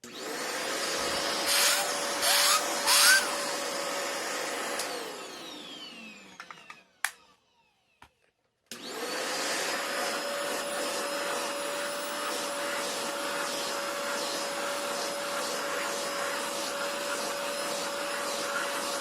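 Tiny battery-powered handheld dustbuster-style vacuum running with a steady whine. It has three short louder bursts a couple of seconds in. After about five seconds it is switched off and winds down with a falling pitch, then a click and a brief pause. It starts again and runs steadily.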